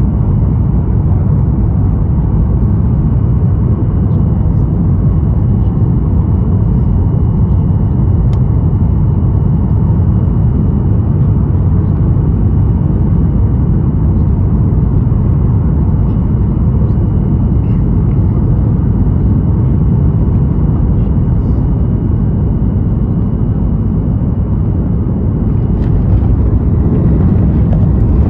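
Boeing 737-800 cabin noise: a loud, even rumble of the engines and airframe, with a faint thin high tone running through it.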